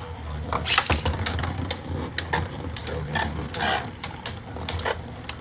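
Two Beyblade Burst tops, Flame Pandora and Twister Pandora, spinning and colliding in a plastic Beyblade stadium: irregular sharp plastic clacks as they hit each other and the stadium wall.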